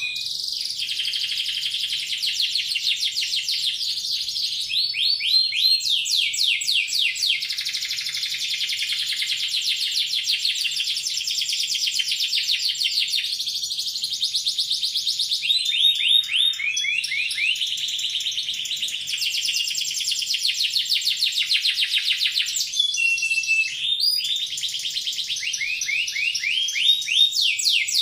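Domestic canary singing a long, loud song of rapid trills and rolls: very fast repeated notes, some series sweeping down in pitch, with only brief breaks.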